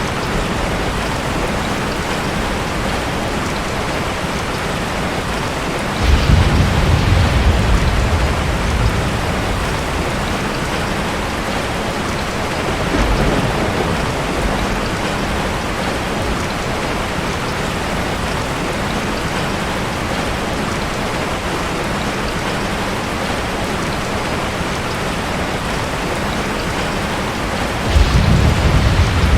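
Steady heavy rain with rolls of thunder: a deep rumble breaks in about six seconds in and lasts a few seconds, a fainter one follows later, and another starts near the end.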